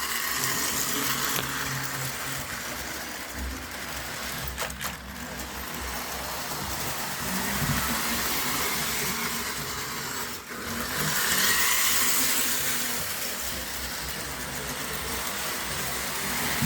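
Postwar Lionel 2036 O-gauge steam locomotive with Magne-Traction running fast laps on three-rail tubular track with its freight cars: a steady motor and wheel noise with a low hum, dipping briefly about ten seconds in and louder for a couple of seconds after.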